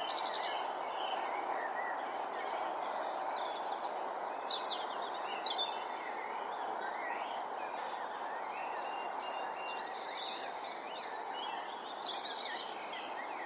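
Outdoor ambience: a steady hiss of background noise with small birds chirping and singing now and then, most clearly about four to six seconds in and again around ten to eleven seconds.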